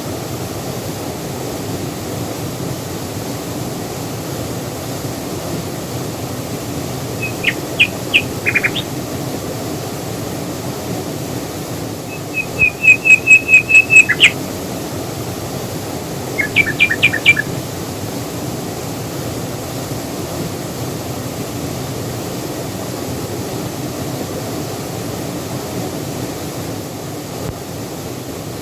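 Steady rush of a waterfall, with a bird calling over it three times: a few quick notes about seven seconds in, a fast run of about eight high notes near the middle, and a shorter run of notes a few seconds later.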